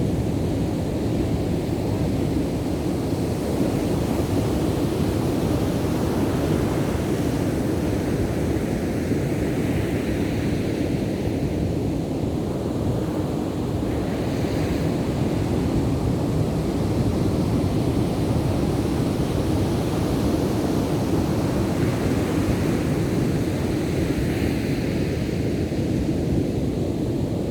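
Ocean surf: waves breaking and washing on the beach in a continuous low rush that swells a little at times.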